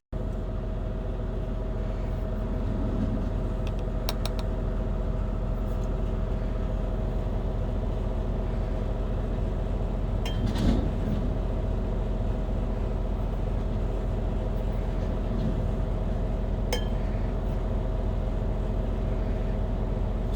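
Steady hum of an idling semi truck heard in the cab, with a few light clinks about four, ten and seventeen seconds in.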